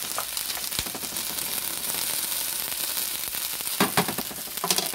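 Diced potatoes and onions sizzling steadily as they fry in a nonstick skillet, with a plastic spatula stirring and turning them; a couple of sharper, louder scrapes come about four seconds in.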